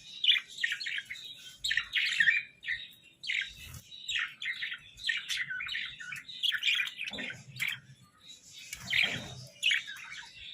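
Budgerigars chattering and warbling: a dense run of quick, scratchy chirps and squawks, with a few harsher calls about seven and nine seconds in.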